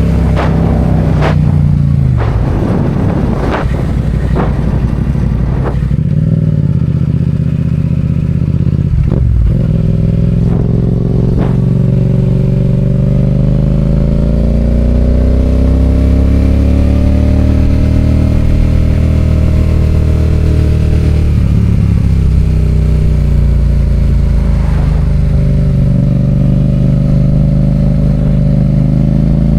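Yamaha FZ-07's parallel-twin engine running under way, heard from the rider's seat. The engine note drops and picks up again several times in the first dozen seconds, then rises smoothly, falls, and rises again as the bike speeds up and slows.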